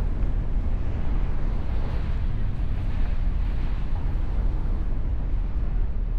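Mustang convertible driving: a steady low rumble of engine and road noise, with wind on the microphone.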